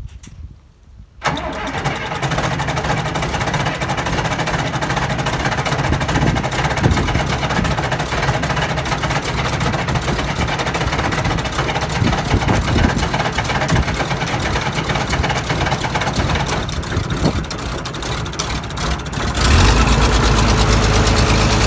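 John Deere 3130 tractor's six-cylinder diesel cold-starting: the starter cranks it over for a long stretch from about a second in, then near the end it catches and runs louder.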